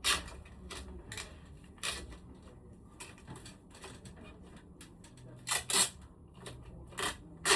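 Scattered sharp clicks and knocks, about ten in all, irregularly spaced, with the loudest pair a little over five seconds in, over a faint low hum.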